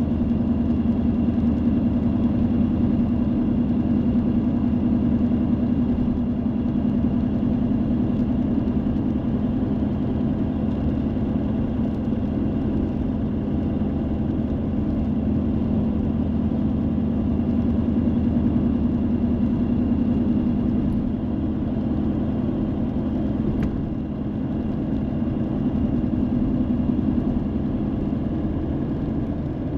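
A car being driven, with the engine and the tyres on the road making a steady low drone that holds level throughout.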